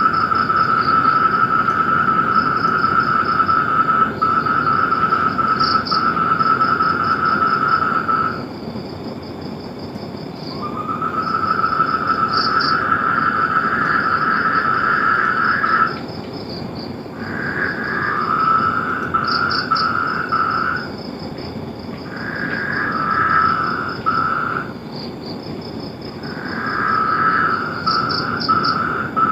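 Frogs calling in long, steady trills several seconds each, some overlapping, over a fast-pulsing higher-pitched chirping and a steady low background noise.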